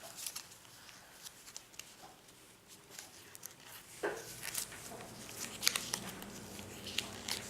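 Paper pages and tags of a small handmade journal being handled and turned: soft rustling with scattered small clicks and ticks, a little busier about halfway through.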